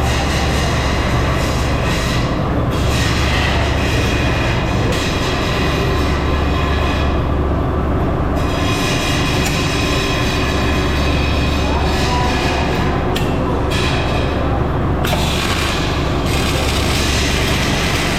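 Steady loud din of metalworking machinery with a strong low hum, its tone shifting abruptly several times.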